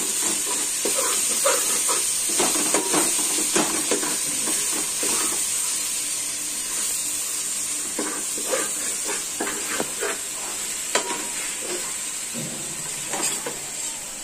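Marinated chicken pieces sautéing in oil and masala in a metal pot with a steady sizzle, while a steel spoon stirs them, scraping and clinking against the pot.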